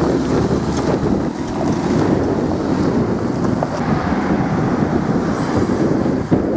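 Wind buffeting the microphone: loud, mostly low, unbroken noise.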